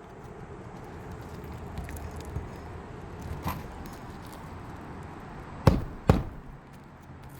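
Nails being driven into asphalt roof shingles: two sharp loud strikes about half a second apart, with a few lighter taps before them.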